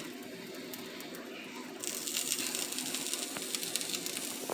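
Quesadilla fillings sizzling in a hot pan: a steady frying hiss with faint crackles that grows louder about two seconds in.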